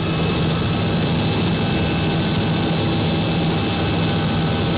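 Helicopter turbine engine and rotor running steadily: a constant whine of several high tones over a low rumble.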